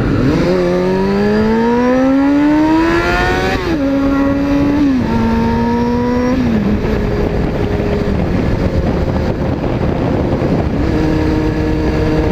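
Honda CBR600F4i inline-four sport bike accelerating hard: the engine note climbs steadily for about three seconds, then drops in steps as it shifts up through several gears and settles into a cruise, with a brief rise and fall again near the end. Wind and the hiss of tyres on a wet road run underneath.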